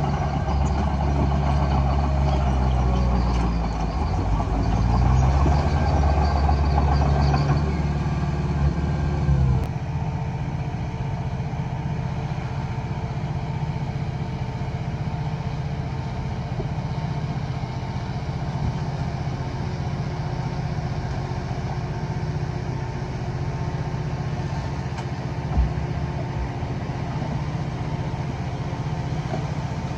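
Diesel engine of heavy earthmoving machinery working hard, its pitch shifting a few seconds in. About ten seconds in, it drops suddenly to a steady idle.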